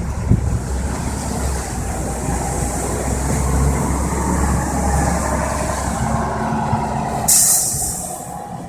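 Low rumble of a large vehicle's engine running, with a sudden short hiss about seven seconds in.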